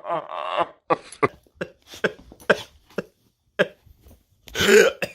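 A person making a string of short, sharp cough-like bursts, then a longer, louder cough near the end.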